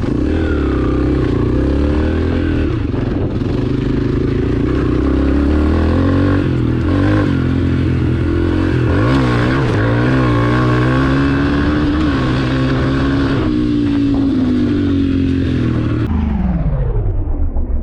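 Small dirt bike engine running hard, its revs rising and falling, then dropping steadily near the end.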